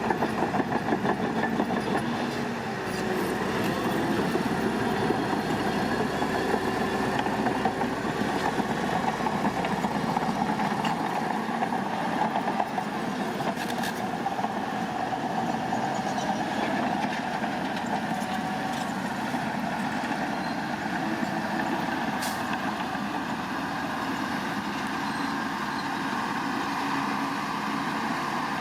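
Heavy diesel construction machinery running steadily, with a couple of short clicks or knocks partway through.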